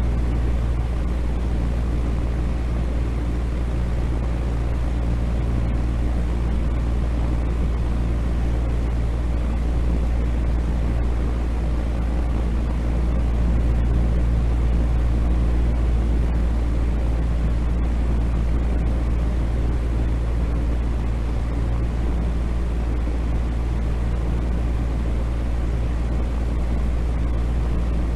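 Steady low rumbling noise with a faint steady hum underneath, heaviest in the bass and thinning toward the treble, unchanging throughout: a continuous sleep-noise track.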